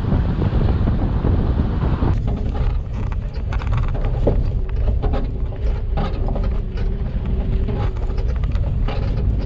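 Motor vehicle running, heard from on board: wind and road noise for the first two seconds, then a steady engine hum with frequent rattling clicks.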